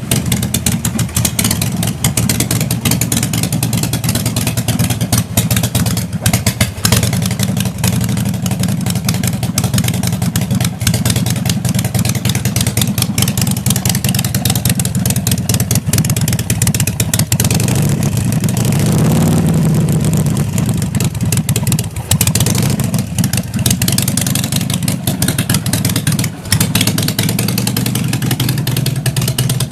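Harley-Davidson Sportster Forty-Eight (XL1200X) air-cooled 1200 cc V-twin running at idle, with a brief rev about two-thirds of the way through before settling back.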